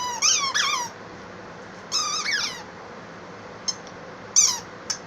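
Small dog whining in short, high, wavering cries: a few in the first second, another about two seconds in and a brief one near the end. It is begging to have its dropped squeaky toy fetched.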